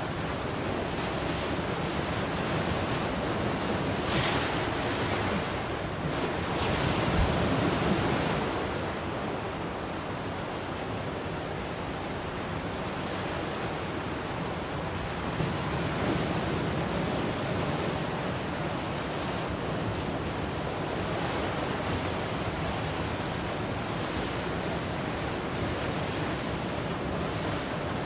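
Ocean waves breaking and washing on the shore in a steady surf, with swells that rise and fall; the biggest breaks come about four seconds in and again around seven seconds in.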